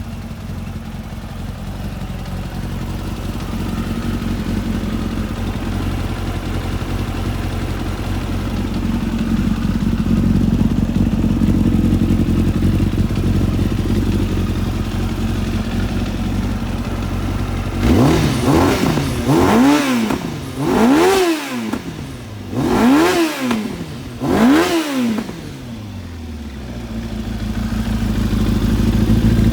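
1997 Kawasaki ZX-9R's inline-four engine idling steadily, then revved in about five quick throttle blips a little past halfway, each rising and falling in pitch, before settling back to idle.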